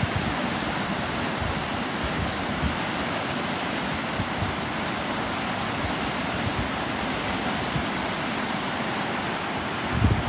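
Steady rushing of fast-flowing water, with a few low bumps near the end.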